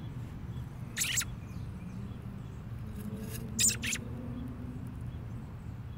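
A bird's short, high-pitched chirps: one about a second in and a quick pair a little before four seconds in, over a steady low hum.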